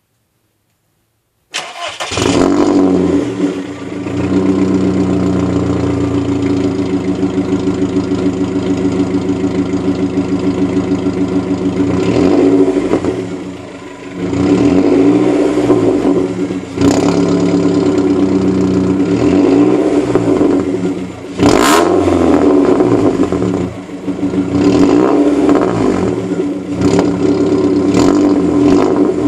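1.4 Seat Leon engine heard through a decatted custom exhaust built from a diesel Mondeo exhaust. It comes in loud about a second and a half in and runs with repeated revs rising and falling, with a few sharp cracks over it.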